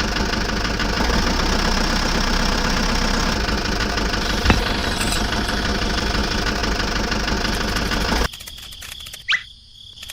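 An engine-like motor sound running steadily with a rattling, knocking texture, cutting off suddenly about eight seconds in. A short chirp follows near the end.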